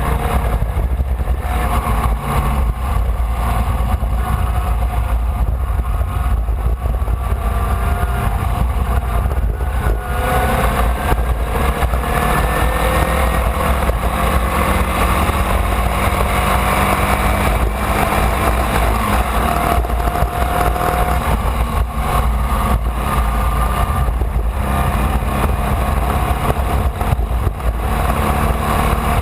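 Formula Vee race car's air-cooled Volkswagen flat-four engine at racing speed. Its pitch climbs steadily for several seconds about a third of the way in, then steps and shifts again later, with a heavy wind rumble on the onboard microphone.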